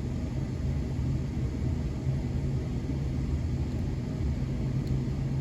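Old GE gas furnace running, a steady low rumble and hum.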